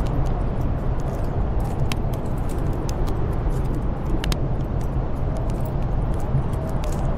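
Steady low rumble of snowstorm wind, with frequent small crackles and pops from a wood fire burning in a fireplace.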